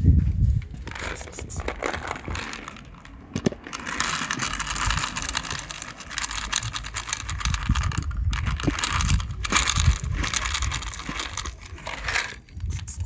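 Rustling and crinkling with many small clicks and crackles, fading near the end.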